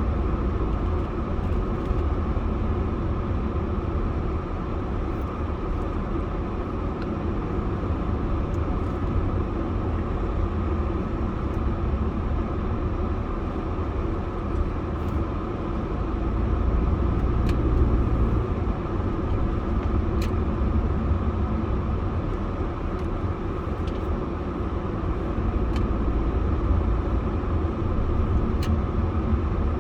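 Car driving at a steady speed: a continuous low rumble of road and engine noise with a few faint ticks.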